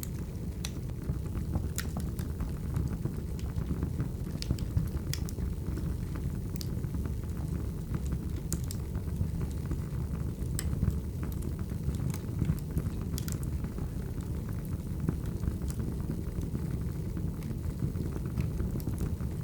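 Burning firewood: a steady low rumble of flames, with sharp, irregular crackles and pops from the logs.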